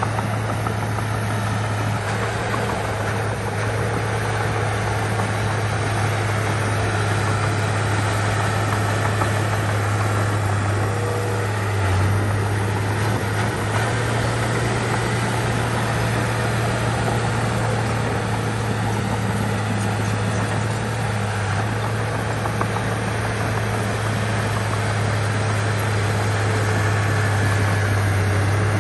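Heavy diesel engine of a bulldozer running steadily at an even speed, with a strong low hum and mechanical noise over it.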